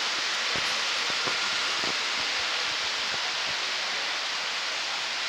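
Steady hiss of background noise in a busy exhibition hall around a model railroad layout, with a few faint clicks in the first few seconds.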